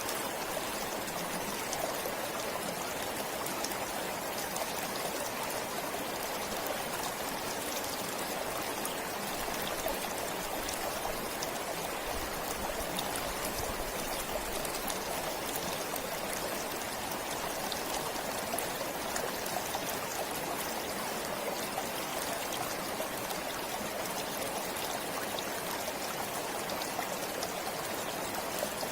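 Forest stream flowing steadily, water trickling and babbling over stones.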